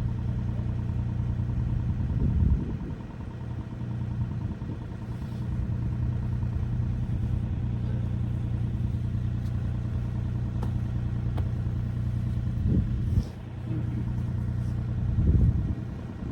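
Mini excavator diesel engine running steadily, with a few louder surges and knocks as it works under load, about two seconds in, near thirteen seconds and again near the end.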